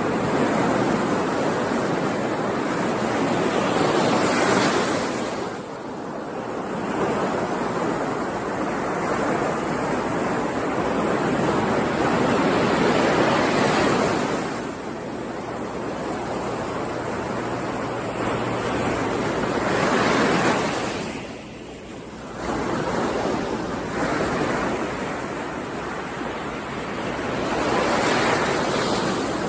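Ocean surf: waves rolling in and washing back, the rush swelling and easing about every seven or eight seconds.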